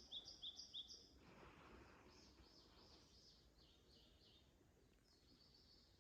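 A small songbird singing faintly: quick runs of short high notes that alternate between two pitches, a few notes a second. One phrase comes at the start, a longer one follows about two seconds in, and a short one comes near the end.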